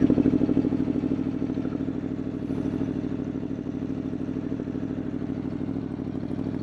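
2021 Aprilia Tuono V4 motorcycle's V4 engine idling with a fast, even pulse, easing slightly lower in the first second or so.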